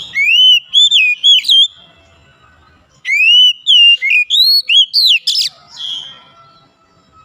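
Oriental magpie-robin singing: two loud phrases of clear whistled notes that sweep up and down, the second starting after a short pause about three seconds in and lasting longer.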